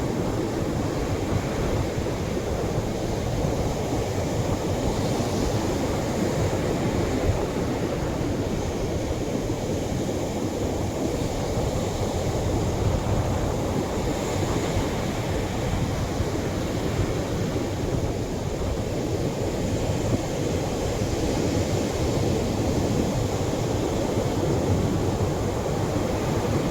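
Ocean waves washing onto a beach: a steady, low rushing surf with no distinct single crashes.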